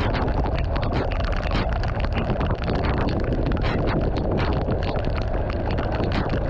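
Rain falling on the road, heard as a dense crackle of drops over a steady deep wind rumble on the microphone from a moving vehicle.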